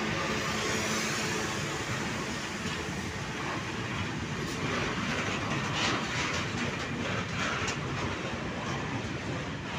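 ČD Cargo freight train of covered hopper wagons passing, the wheels running on the rails with a steady noise and sharp clicks from about halfway through as they cross the points.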